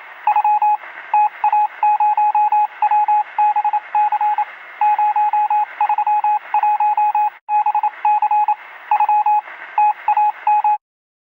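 An electronic beep tone keyed on and off in quick short and long pulses, Morse-code style, over a steady radio-like hiss. It cuts off suddenly near the end.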